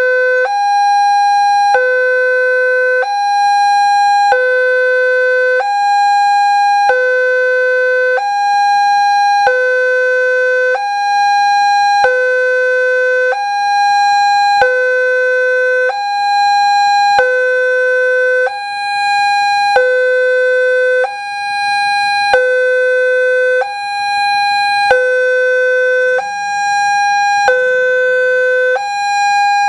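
Electronic warning alarm of an Indonesian railway level crossing, alternating between a high and a low tone about every second and a quarter, with a click at each change. It signals that a train is approaching and the crossing barriers are closing or closed.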